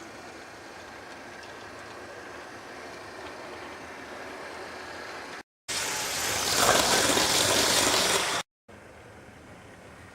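Model railway train running on its track: a steady hum of motor and wheels. It cuts out abruptly twice, and between the cuts there is a much louder rushing stretch of about three seconds.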